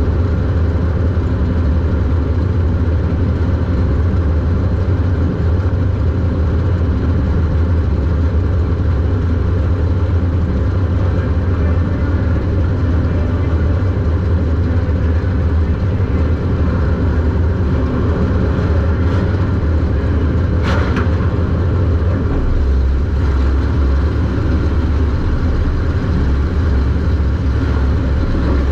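Super Stock race car's engine heard from inside the car, running loud and steady at racing speed, with a deep drone that shifts in pitch about three-quarters of the way through. A single sharp knock comes about two-thirds of the way in.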